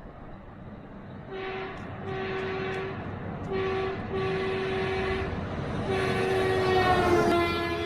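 A train horn sounds a series of blasts, short and long, over a low rumble. The last blast is the longest and loudest, and its pitch drops slightly near the end.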